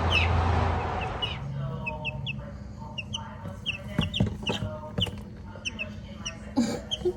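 Young chicks peeping in short, high, rapid cheeps, the anxious calls of frightened chicks. A few sharp knocks come in the middle.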